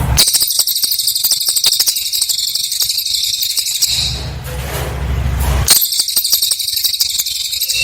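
Cililin bird song: a dense, very high-pitched run of rapid notes ('nembak rapat') lasting about four seconds, a short regular pause, then a second burst.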